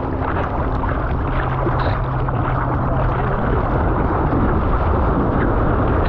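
Ocean surf and rushing water: a loud, steady wash of noise without breaks.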